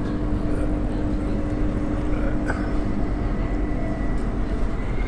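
Electric suburban passenger train running, heard from inside the carriage: a steady low rumble with a steady hum that stops about four and a half seconds in, and a faint high whine that comes in about two seconds in.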